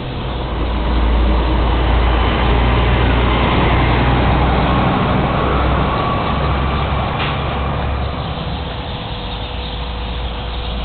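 Dense, continuous chirping din of a huge flock of small migrating songbirds massed in one tree, over the steady low rumble of a running motor vehicle engine that grows louder about a second in.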